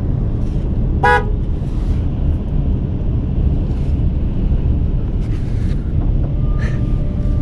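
Strong gusting wind rumbling steadily on the microphone, with a brief pitched call about a second in and a short steady tone near the end.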